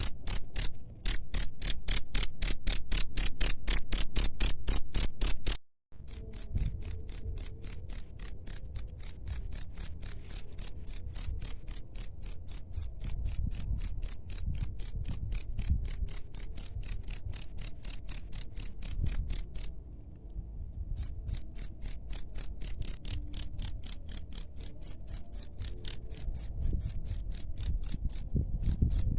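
A cricket chirping in a fast, even train of high-pitched pulses, several a second. It is broken by a few sudden short silences, the longest about a second long two-thirds of the way in.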